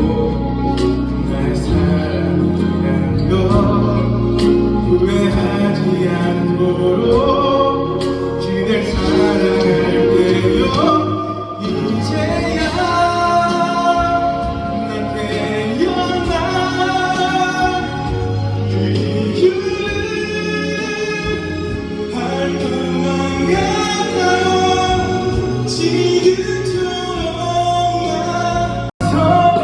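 A man singing a slow wedding ballad over instrumental accompaniment.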